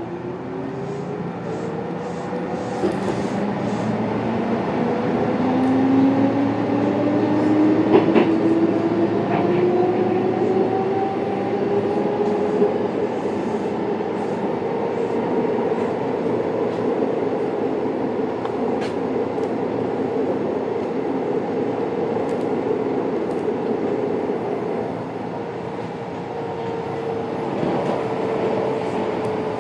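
Interior running noise of an electric commuter train: the traction motors whine as the train accelerates, rising in pitch over the first half, then holding roughly steady at speed over the rumble of the wheels. A few sharp clicks come from the wheels and track.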